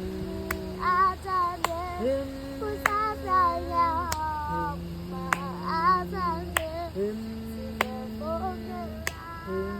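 Singing voices carrying a melody over held backing chords that change every couple of seconds, with a sharp click or beat about once a second.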